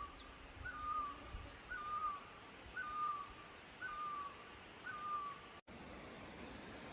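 A bird calling the same short whistled note over and over, about once a second, each call a quick higher blip settling to a steady tone. The calls stop with an abrupt cut about five and a half seconds in, leaving only steady background noise.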